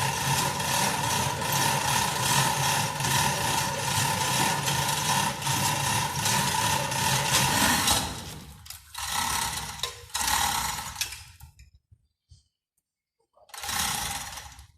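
A small electric motor running with a steady whine. It stops about eight seconds in, then runs again in two short bursts.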